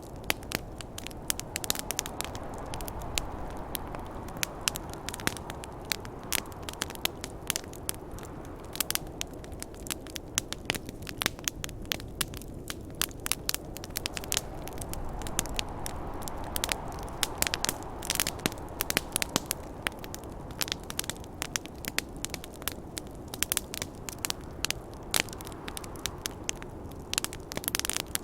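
Wood fire crackling and popping, sharp irregular snaps several times a second over a low rushing wind that swells and fades.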